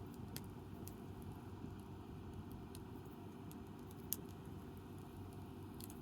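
Wood campfire burning, with occasional sharp crackles and pops over a steady low background; the loudest pop comes about four seconds in.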